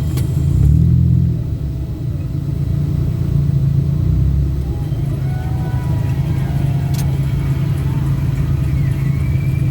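Steady low rumble of a moving road vehicle's engine and road noise, swelling for about a second near the start. Two sharp clicks, one at the start and one about seven seconds in.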